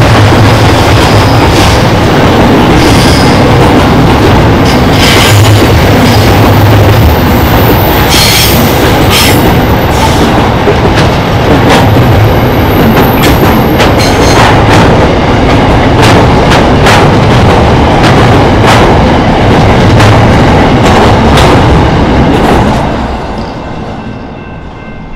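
Container wagons of an intermodal freight train rolling past, with a steady heavy rumble of wheels on rail and regular clicks as the wheels cross rail joints. A high thin wheel squeal sounds for several seconds midway. The sound fades from about three seconds before the end as the train draws away.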